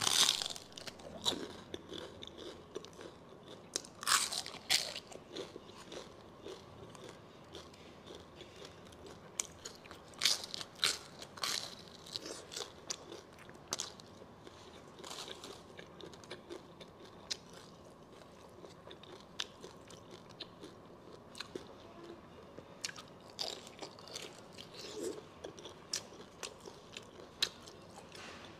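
Close-miked biting and chewing of braised pork large intestine: irregular sharp mouth clicks and smacks, with louder clusters of bites every few seconds.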